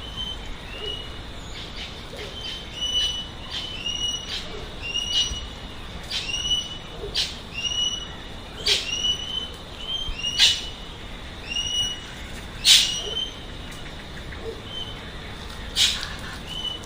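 Birds calling: a short, curved whistled note repeated about once a second, mixed with sharp, high chips.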